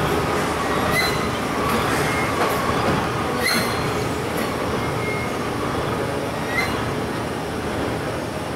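Regional passenger train creeping into a terminus platform: a steady rumble of wheels on rail, broken by about five short, high squeals from the wheels. The rumble eases slightly near the end as the train slows.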